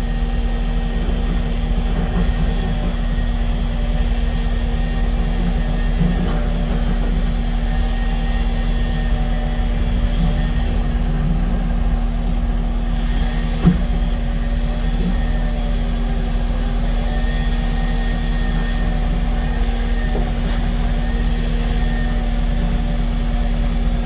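Diesel engine of heavy construction equipment running steadily at constant speed, with a faint whine rising and falling now and then, and a single sharp knock about fourteen seconds in.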